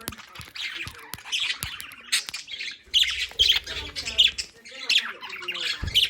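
Pet budgerigars chattering and squawking in a fast run of short calls and clicks, with a low thump near the end.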